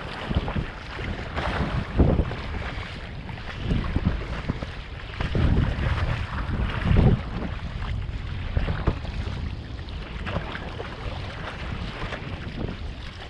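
Strong wind buffeting the microphone in irregular gusts over the wash and splash of choppy sea water.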